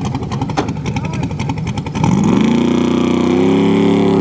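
Drag race car engine: a rough, pulsing idle, then about two seconds in the engine revs hard, its pitch climbing fast and then holding high and loud as the car accelerates.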